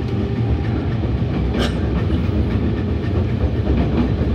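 Chiyoda Line commuter train moving past at close range, a steady loud rumble of wheels on rail, with one sharp click about a second and a half in.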